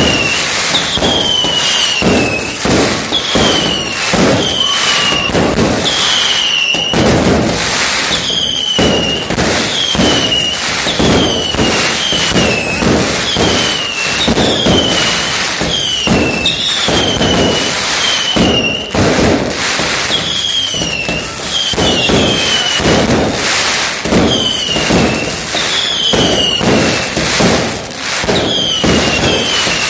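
Fireworks going off in quick succession: a dense string of bangs and crackling, with short whistles falling in pitch about once a second as the whistling shots climb.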